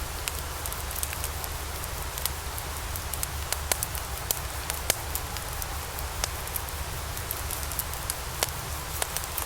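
Logs burning in a fireplace: a steady hiss and low rumble of the fire, with frequent sharp crackles and pops scattered irregularly throughout.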